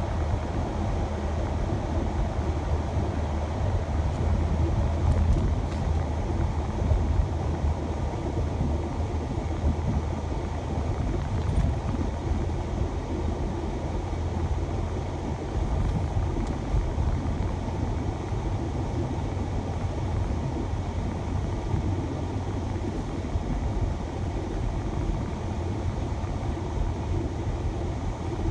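Steady road and engine noise of a shuttle van driving, a low, even rumble with no distinct events.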